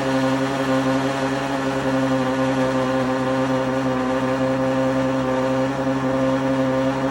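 Ferrari 812 Superfast's 6.5-litre naturally aspirated V12 idling steadily at a fast cold-start idle. The pitch holds even, with no revving.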